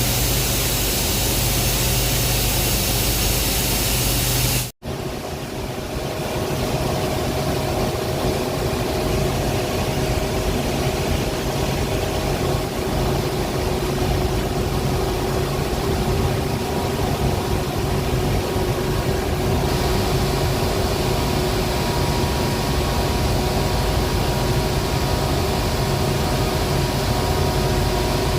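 Loud, steady industrial machinery noise: a constant hiss with a low hum and a few steady tones. About five seconds in it cuts out for an instant and then carries on as a similar steady machine hum with a different set of tones.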